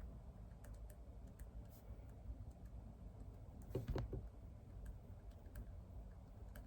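Faint, sparse typing on a computer keyboard: scattered key clicks, with a louder cluster of a few knocks about four seconds in.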